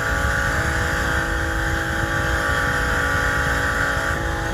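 Steady engine drone: an even, unchanging hum over a low rumble that shifts slightly near the end.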